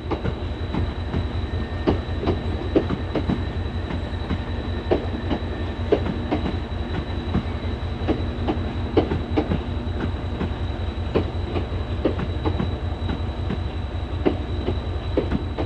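Class 375 Electrostar electric multiple unit pulling out of the station, its wheels clicking over rail joints and points at irregular intervals. Underneath is a steady, rapid low throb, and a thin high whine holds steady throughout.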